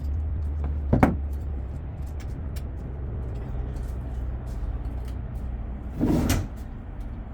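A motor vehicle engine idling with a steady low rumble, with a sharp knock about a second in and a louder clatter around six seconds in.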